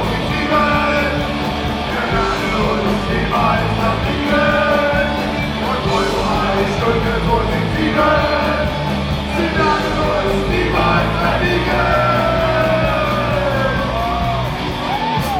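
Live band playing loud with a lead vocalist singing and shouting lines over guitars, bass and drums.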